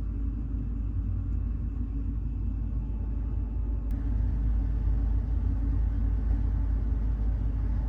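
A deep, steady rumble with a faint hiss above it, growing a little louder about four seconds in, with one faint click near the middle.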